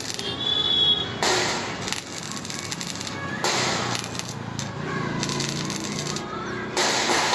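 Three short bursts of crackling hiss, each about a second long, typical of arc-welding tack welds being struck.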